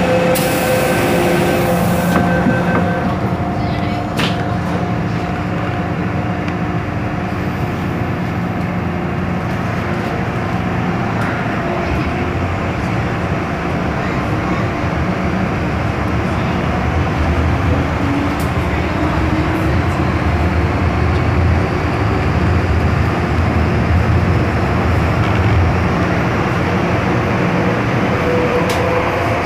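MTR M-Train subway car running through a tunnel, heard from inside the car: a continuous rumble of wheels and running gear. Steady motor hum tones fade out in the first few seconds, and a deeper rumble builds through the middle.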